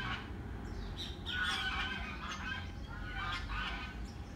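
Birds calling: several short calls with bending pitch, a cluster about a second in and another past three seconds, over a steady low background rumble.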